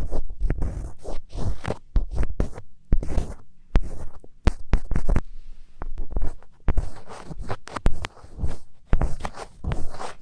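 Close-miked ASMR scratching: rapid, irregular fingernail scratches and scrapes, with a brief lull about halfway through.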